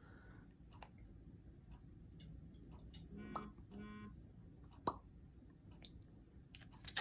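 Faint scattered clicks and taps, as a parrot handles a plastic back scratcher. A little past the middle come two short, flat beep-like tones, one right after the other.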